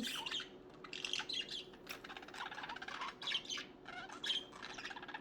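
Budgerigars chirping and warbling: a scatter of quick, high, short chirps in a soft continuous chatter.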